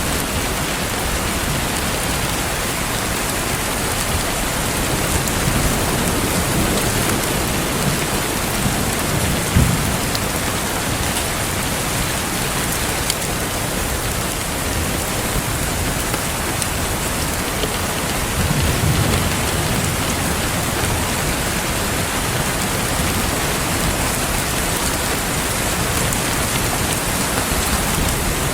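Steady rain falling, an even wash of noise, with a low rumble swelling twice, about a third of the way in and again about two-thirds in.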